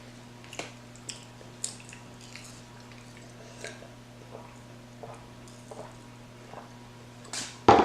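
Close-miked chewing and soft mouth smacks of someone eating soggy McDonald's french fries, with scattered small clicks. A short, much louder noise comes near the end.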